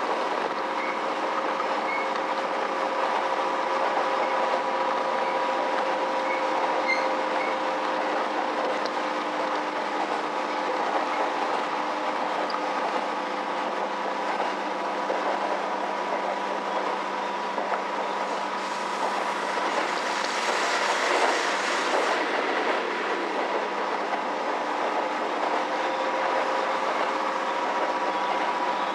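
Inside a KiHa E130 diesel railcar running at speed: steady rumbling running noise with a constant whine from the drivetrain and the wheels clicking over rail joints. About two-thirds of the way through, a louder rushing hiss swells for a few seconds and then drops back.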